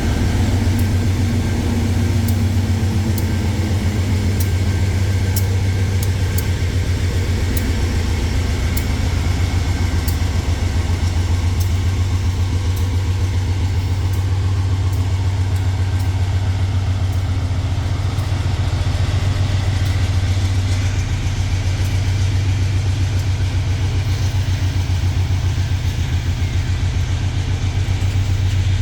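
Engine running steadily, a loud low drone with a fine even pulse, and a few faint ticks in the first half.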